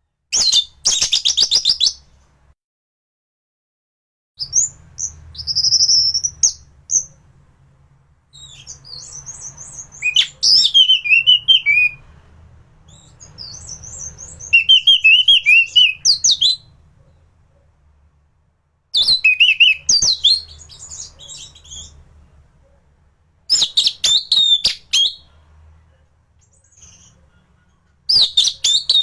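Orange-headed thrush (anis merah) in full song: a run of separate, varied phrases of quick high whistled notes and rapid chattering trills, each a second or two long, with short pauses between them.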